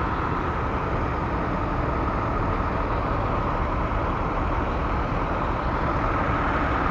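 Heavy truck engine idling: a steady, unchanging rumble.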